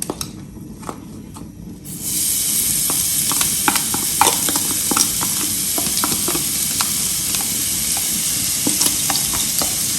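Chopped aromatics frying in hot oil in a pan: a loud sizzle starts suddenly about two seconds in and holds steady, with a spatula tapping and scraping the pan as it is stirred.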